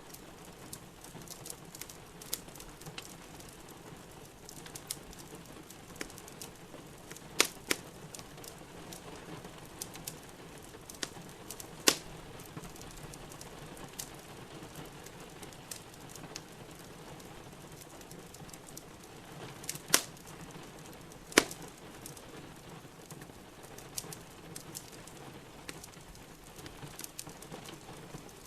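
Steady rain hissing with a wood fire crackling in a fireplace; small ticks throughout and a few sharp, loud pops of burning wood.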